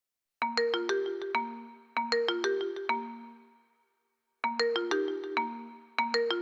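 Vivo Y20 phone ringtone playing through the phone's speaker: a short melody of quick, crisp pitched notes, repeated twice, then after a brief pause starting over again.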